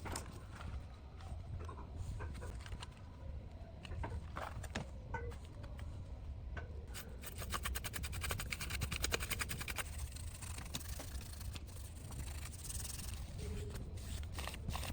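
Scraping and rubbing on metal with scattered clicks from small parts and hand tools being handled. From about seven to ten seconds in there is a fast run of rapid ticks, over a steady low hum.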